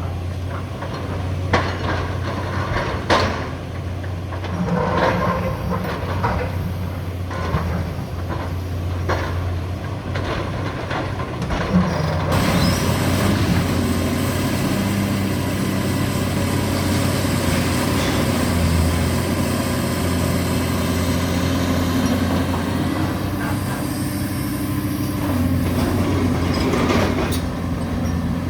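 Hydraulic excavator engine running steadily through demolition work. Sharp knocks and clanks come in the first dozen seconds. From about twelve seconds in, a denser continuous noise of material being crushed and scraped joins in.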